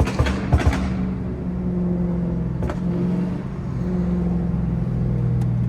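Tuned Dodge Charger SRT Daytona's 392 HEMI V8 running while driving, heard steadily with small shifts in pitch. A few short knocks sound in the first second.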